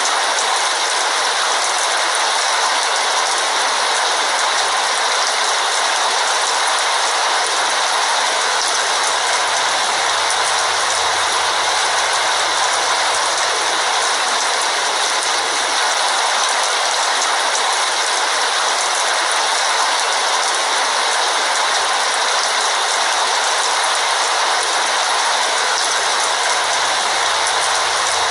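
Heavy rain falling steadily, an even hiss that doesn't let up.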